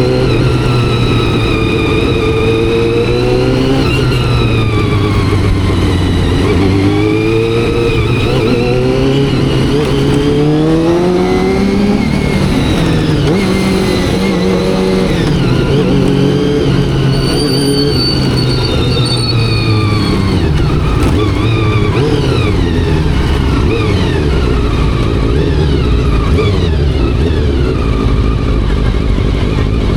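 Honda CBR400RR carbureted inline-four motorcycle engine and exhaust running while riding, the revs climbing and dropping again several times as the rider accelerates and eases off.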